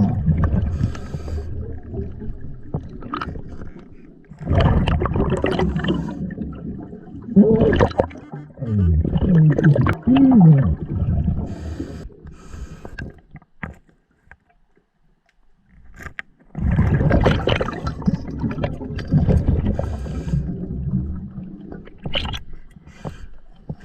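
Underwater bubbling and gurgling from a scuba diver's exhaled breath, in a few long bursts several seconds apart, with a quiet gap between breaths.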